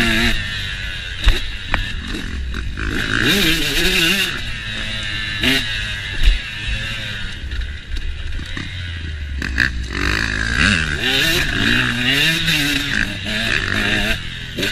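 KTM motocross dirt bike engine revving hard and dropping back over and over as it is ridden, pitch rising and falling with each throttle burst. A few sharp knocks from the bike hitting bumps come through.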